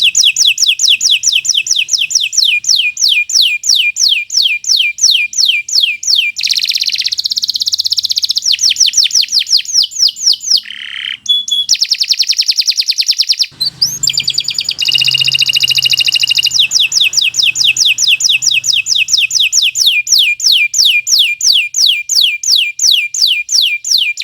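Domestic canary singing a long continuous song: rapid runs of high, downward-sweeping notes repeated about four to five times a second. The song changes phrase a few times, with brief breaks about eleven and thirteen seconds in.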